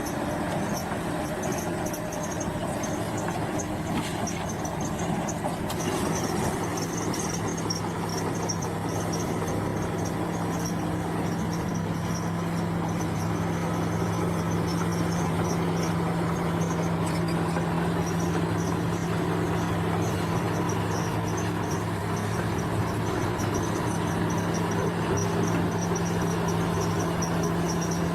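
Bulldozer's diesel engine running at a steady pitch, with insects chirring high above it.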